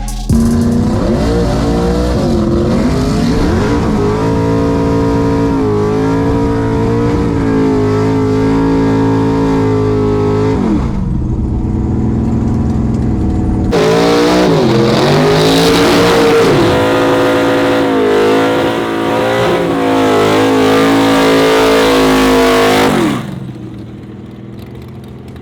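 Drag race car engine running hard at high revs in two long stretches, each opening with a dip and climb in pitch before holding fairly steady. There is a short lull of about three seconds between the stretches, and the sound drops off sharply near the end.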